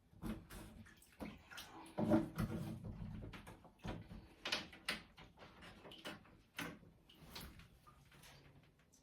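Irregular knocks, scrapes and splashes of hands working in a clogged bathtub drain, pulling out debris, with the loudest clatter about two seconds in.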